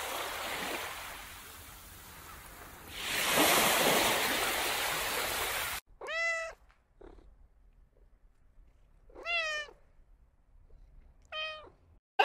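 Surf washing onto a beach, a steady rush that grows louder about three seconds in and cuts off abruptly near the middle. Then a tabby cat meows three times, short calls a few seconds apart.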